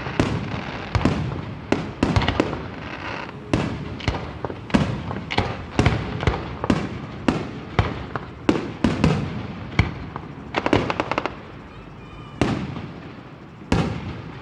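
Aerial fireworks going off in quick succession: a string of sharp bangs and crackles about two a second, thinning out for a moment near the end before one more loud bang.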